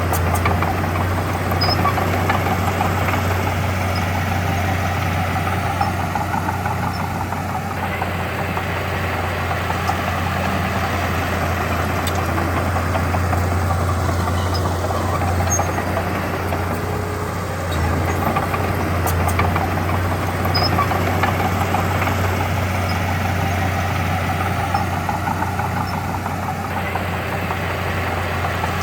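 Heavy diesel engine of earthmoving machinery running steadily, with a strong low hum. The sound changes abruptly about 8 and 18 seconds in and again near the end.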